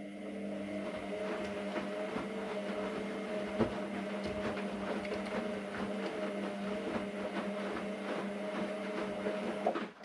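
AEG Lavamat Turbo washer-dryer's drum turning in a wash cycle: a steady motor hum with scattered clicks and knocks from the tumbling load, and one louder knock a few seconds in. The drum spins for about ten seconds and then cuts off suddenly as it pauses between turns.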